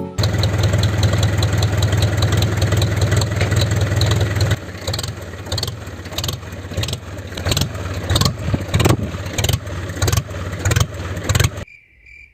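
A DIY mini tractor's engine-like running sound: a steady low hum for the first four seconds or so, then lighter with regular knocks, cutting off suddenly near the end.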